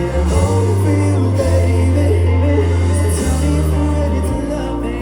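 Live band playing a reggae-pop song, with a heavy bass line that changes note every second or so and sung vocal lines over it.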